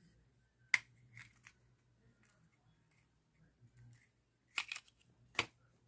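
Handling noise: a few sharp clicks and light taps, one about a second in and a loud cluster near the end, with faint room hum between.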